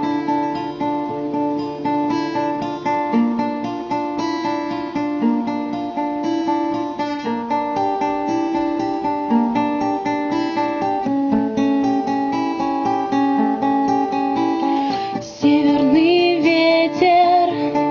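Song intro on fingerpicked acoustic guitar: a steady stream of plucked, broken-chord notes. About fifteen seconds in, a voice begins singing over the guitar and the level steps up.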